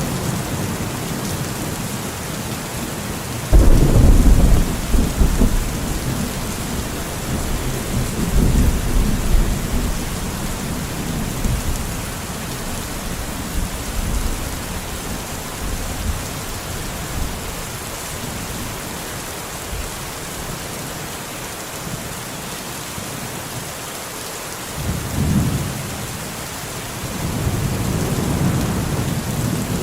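Steady heavy rain falling, with a sudden loud thunderclap about three and a half seconds in that rumbles on for several seconds, and more rolls of thunder near the end.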